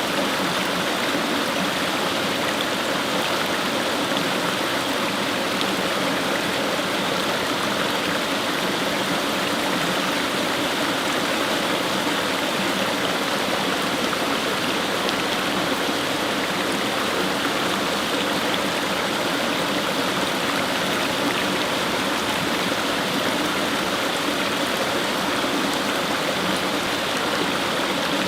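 Fast-flowing brook: water rushing and splashing over stones, steady and unbroken.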